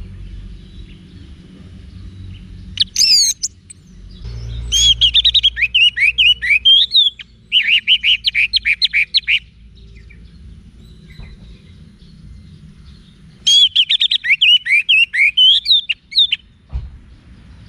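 Orange-headed thrush singing in phrases of quick, varied whistled notes: a short burst, then a long phrase, a pause, and another phrase near the end, over a low steady hum.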